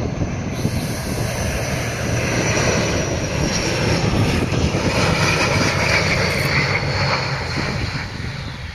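ATR 72 twin-turboprop airliner's engines and propellers running as it comes in to land, a steady rumble with a high whine slowly falling in pitch.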